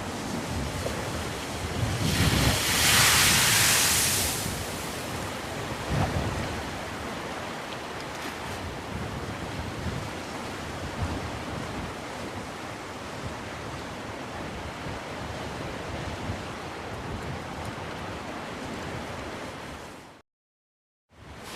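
Sea waves washing on the shore, with one louder wave breaking about two seconds in and a smaller one a few seconds later. The sound cuts out completely for about a second near the end.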